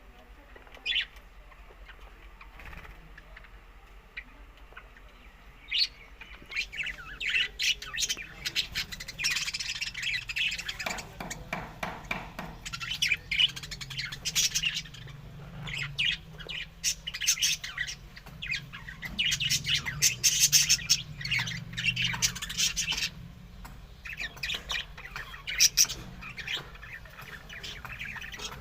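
Budgerigars chattering and squawking: a single short call about a second in, then from about six seconds on rapid runs of chirps in bursts with brief pauses.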